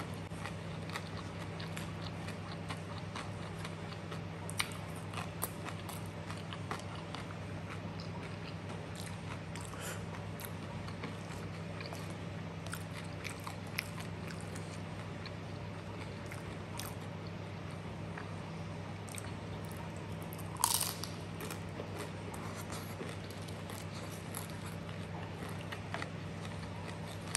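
Close-up eating sounds: chewing and crunching of chips and chicken satay with rice, with many small mouth clicks. A steady low hum runs underneath, and there is one louder crunch about 21 seconds in.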